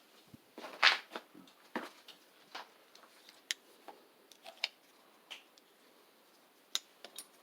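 Irregular light clicks and clinks of a hand tool and metal parts being handled while the set screw in the kickstart pulley is worked loose, the loudest about a second in and a few more near the end.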